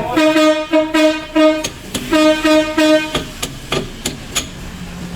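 A horn sounding seven short toots of one steady pitch, four and then three after a brief pause, followed by a few sharp knocks.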